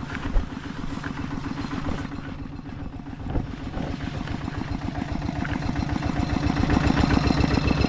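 A small engine running with a rapid, even pulsing beat that grows louder toward the end. A short thump comes just after the start.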